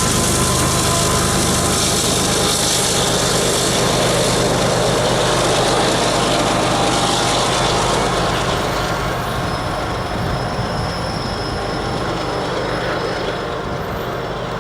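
Freight train cars rolling past on steel rails, with a steady rumble and some wheel squeal. The sound eases off somewhat in the second half.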